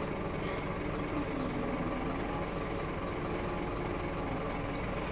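Scania K230UB bus's five-cylinder diesel engine running steadily under way.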